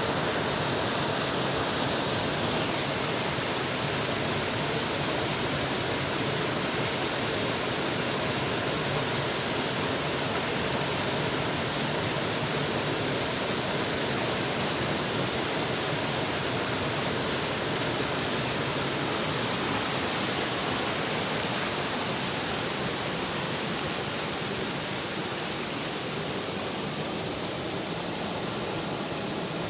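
River water rushing steadily in a dense, even roar.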